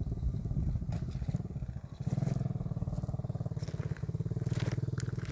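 Single-cylinder four-stroke engine of a 110cc pit bike running at low revs with a rapid, even firing beat, easing off briefly twice as the throttle is let off and picked up again.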